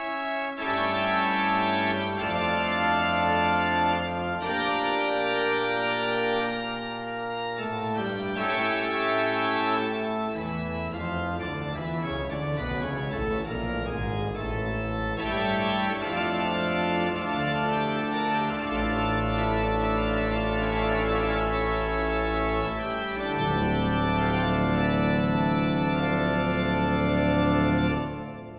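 Instrumental background music of sustained, organ-like keyboard chords over a low bass line, the chords changing every second or two. It fades out near the end.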